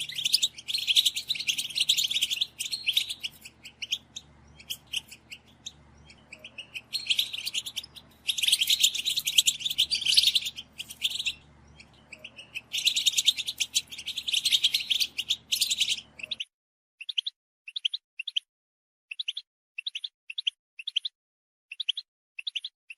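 European goldfinch flock calls: bouts of dense, high-pitched twittering chatter from several birds, the contact-call 'batbata' played to stimulate male goldfinches to sing. About sixteen seconds in, the track switches abruptly to single short calls repeated about twice a second.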